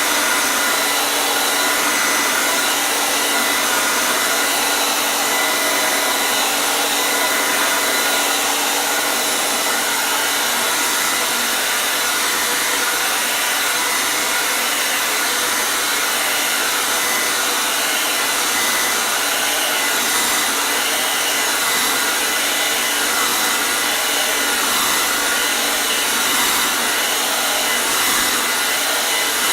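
Hair dryer running steadily: an even, unbroken rush of air with a faint motor whine.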